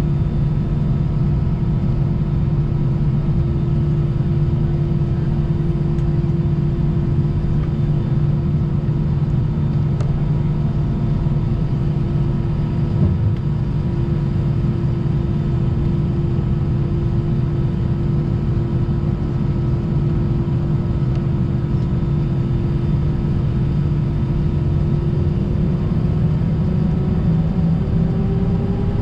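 Airbus A320 engines heard from inside the cabin, a steady hum with a low rumble. Near the end the engine tones begin to rise as the engines spool up for the takeoff roll.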